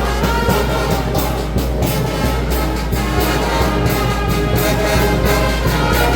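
Brass band playing, horns over a steady drum beat.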